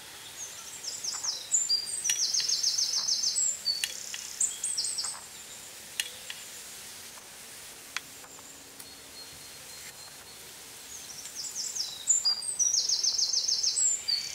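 A songbird singing two phrases about ten seconds apart, each a run of high chirps ending in a fast, even trill. A few faint clicks fall between the phrases.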